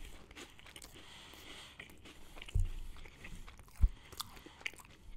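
Chewing a cracker sandwich filled with tuna salad: crackly crunching and mouth noises, with two short low thumps about two and a half and almost four seconds in.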